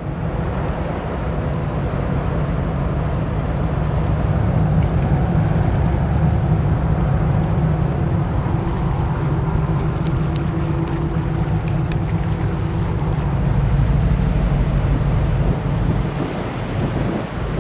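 Wind buffeting the microphone in a steady low rumble, with a faint steady hum beneath it.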